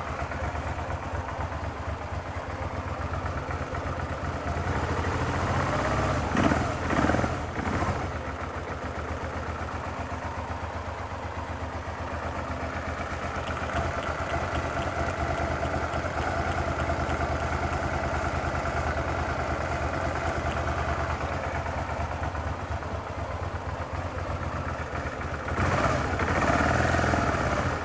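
2005 Suzuki SV650S's V-twin engine idling steadily, blipped up in short revs about six to eight seconds in and revved briefly again near the end.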